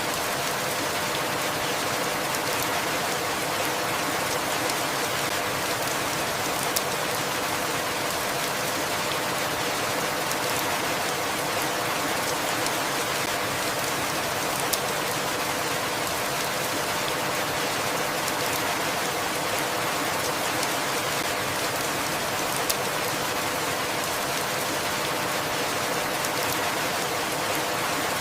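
Steady rain falling, an even hiss with a few single louder drops tapping close by now and then.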